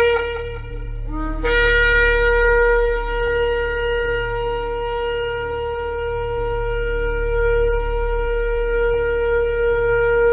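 Shofar blasts: a held note ends about a second in, a brief lower note follows, and then one long steady blast is held at a single pitch.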